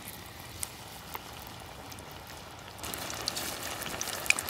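Food frying in hot oil: a steady sizzle with scattered crackles and pops, growing louder about three seconds in.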